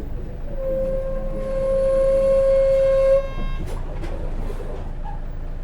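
Brake shoes of a 2004 Hino Rainbow RJ bus squealing in one steady tone for about two and a half seconds as the bus brakes, over the low rumble of the running bus. A few sharp clicks follow shortly after.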